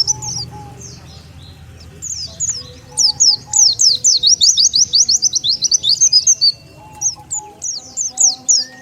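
White-eye (pleci) lure call: runs of quick, high, downward-sliding chirps, many a second. There is a quieter stretch about a second in, then a long unbroken run.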